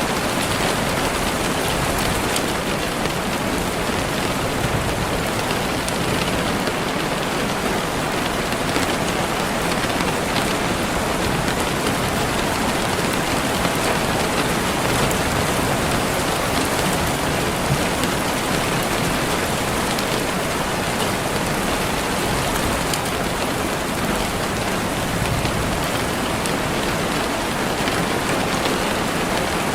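Steady, continuous rain falling, with the patter of drops on a surface.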